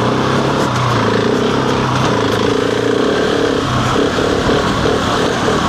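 Husqvarna 701's single-cylinder four-stroke engine running while the motorcycle is ridden. The note holds steady, then turns uneven and choppy about three and a half seconds in.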